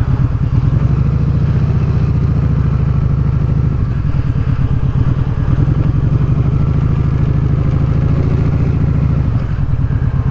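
Kawasaki Vulcan Vaquero's V-twin engine running under way through an exhaust with the baffle taken out. There is a rattle on acceleration, which the rider puts down to something left loose inside the exhaust where the baffle was cut out.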